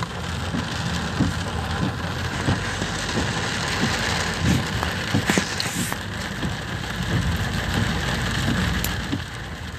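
Torrential rain falling on a car's roof and windscreen, heard from inside the cabin as a dense steady hiss with scattered drop taps, over the low rumble of the car driving on a wet road.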